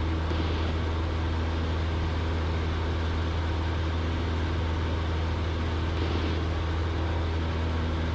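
Cessna 172's piston engine and propeller droning steadily at a constant power setting, heard from inside the cabin.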